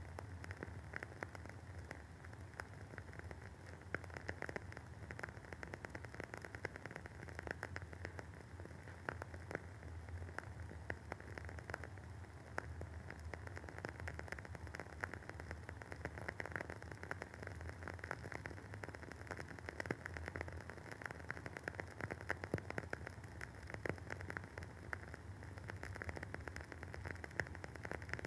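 Wooden wick of a WoodWick candle burning with a continuous, fine, dense crackle of many small rapid pops.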